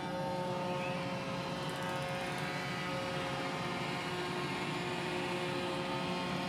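Roomba j7+ robot vacuum running, its suction fan and brush motors giving a steady whine and hum.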